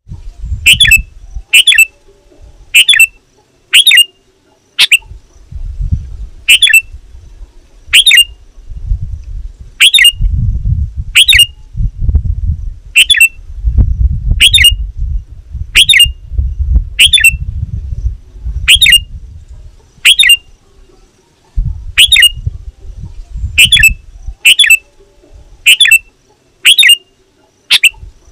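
Sooty-headed bulbul (kutilang) giving a short, sharp call over and over, about once a second, as a loud challenge call to rival bulbuls. A low rumble comes and goes underneath.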